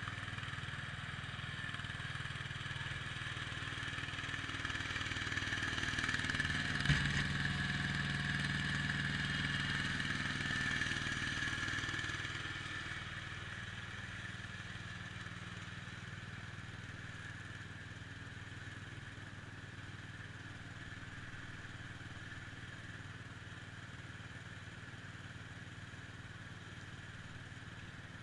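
IH Cub Cadet 147 garden tractor's single-cylinder engine running steadily under load, louder for the first dozen seconds with a single knock about seven seconds in, then settling a little quieter.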